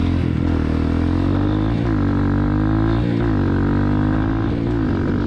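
Honda CRF230F's air-cooled four-stroke single-cylinder engine running while riding, its pitch dipping and climbing back about four times as the throttle is eased off and opened again.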